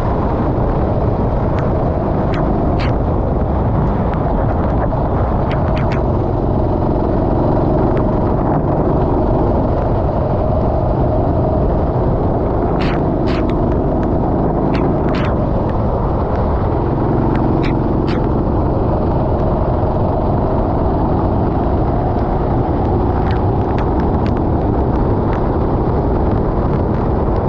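Rental kart engine running under a heavy steady rumble, its pitch rising and falling as the kart accelerates and slows through the lap. Scattered sharp ticks come through now and then.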